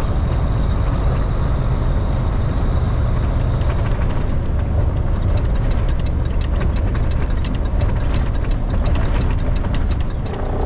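Semi truck's diesel engine running steadily with a heavy low rumble and scattered light clicks and rattles.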